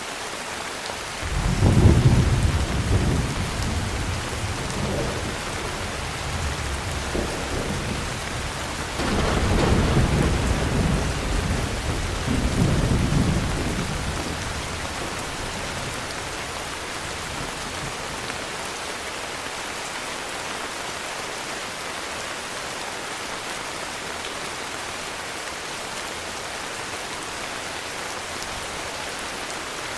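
Heavy rain falling steadily, with rolls of thunder: a deep rumble building about a second and a half in and fading, then a second longer roll from about nine seconds that dies away by fourteen, after which only the rain goes on.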